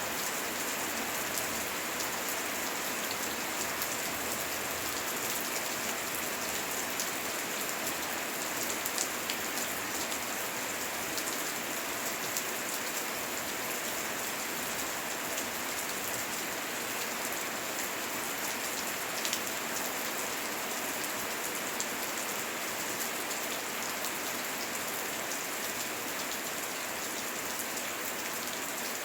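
Steady rain falling, an even hiss sprinkled with many small ticks of individual drops.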